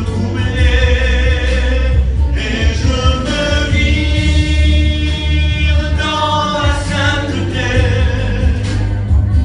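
Christian worship song sung by voices over music with a heavy bass, with one long held note in the middle.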